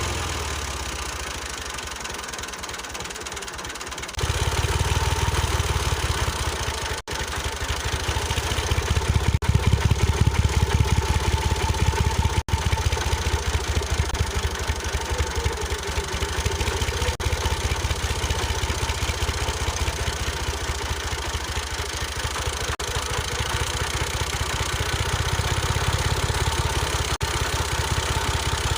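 Engine running with a rapid, even chugging knock, stepping up louder about four seconds in and then running steadily.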